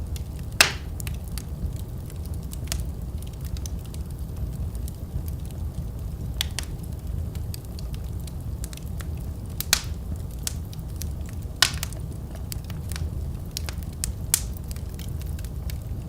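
Wood fire in a fireplace crackling and popping over a steady low rumble, with many small snaps and a few louder pops, the loudest about half a second in.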